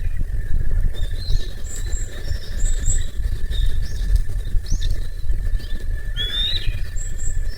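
Campfire burning with a low rumble and soft crackle, while small birds chirp now and then and a thin steady insect buzz carries on underneath; one louder bird call comes a little after six seconds.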